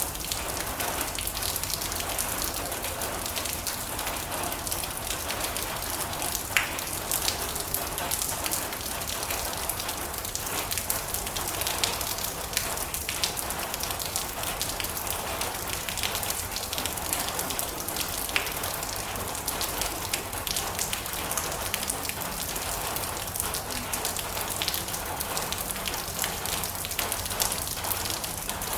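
Steady rain drumming on a metal roof: a dense, even patter of drops, with a few louder single drop strikes standing out.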